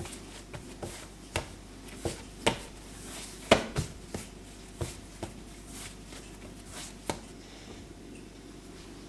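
Irregular light knocks and clicks of kitchen utensils and dishes being handled, with one louder knock about three and a half seconds in.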